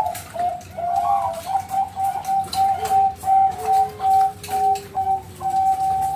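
Zebra dove (perkutut, Bangkok strain) cooing: a quick run of short, clear coo notes at one steady pitch, about two to three a second. A fainter, lower, drawn-out tone runs beneath the notes through the middle.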